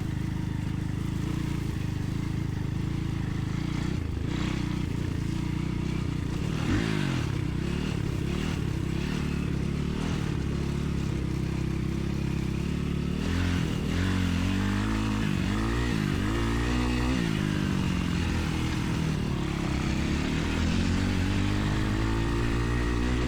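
Dirt bike engine running, steady at first, then its pitch rising and falling again and again as the throttle is opened and closed.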